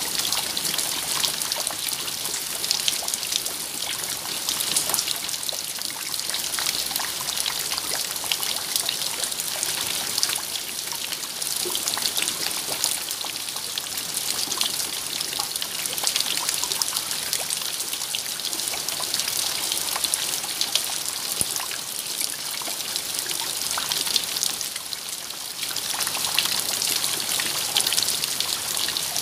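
Steady rain falling: a dense hiss of many small drops, easing briefly near the end.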